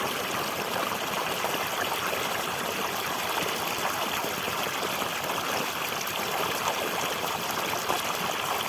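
Flowing water running steadily, an even rushing and trickling with no break.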